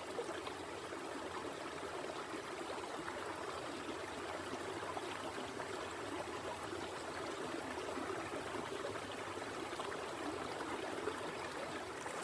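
A shallow creek running over rocks: a steady rushing and trickling of flowing water.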